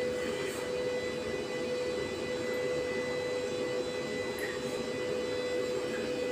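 Bottle washing machine running: a steady mechanical hum with a constant whine, and a few faint ticks.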